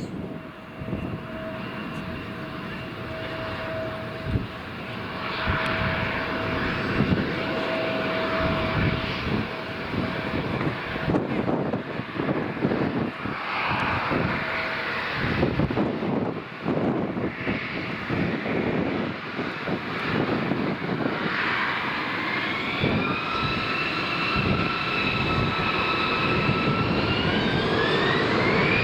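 Airliner engines growing steadily louder as the aircraft approaches. A whine enters about two-thirds of the way in and rises in pitch near the end, with gusts of wind buffeting the microphone.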